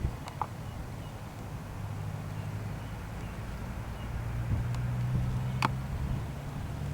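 Low, steady engine rumble that swells slightly past the middle, with two faint sharp clicks.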